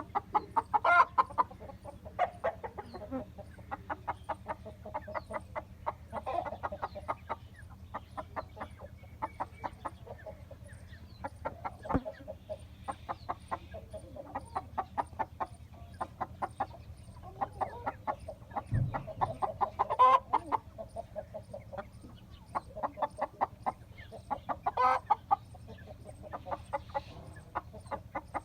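Aseel chickens clucking in quick runs of short notes throughout, with a few louder calls standing out every several seconds.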